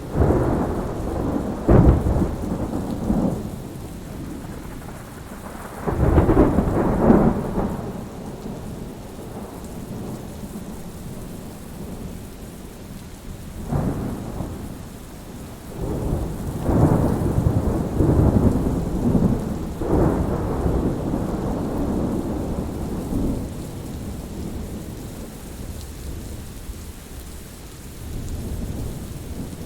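Thunderstorm: steady rain hiss with repeated rolls of thunder. There are rumbles at the start and about six seconds in, a short one near fourteen seconds, a long rolling stretch from about sixteen to twenty-four seconds, and a weaker rumble near the end.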